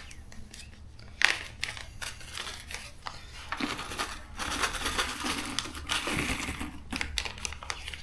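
Small metal valve-train parts, such as valve stem keepers, retainers and springs, clicking and clinking against each other as they are handled, with a sharper click about a second in and busier rattling in the second half.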